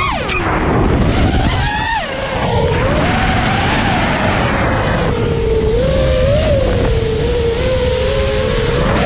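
Brushless motors of a 5-inch FPV racing quadcopter whining, their pitch swooping up and down with throttle, with wind rushing over the onboard microphone. A sharp rise and fall right at the start and another around two seconds in; after that the pitch holds steadier with small wobbles.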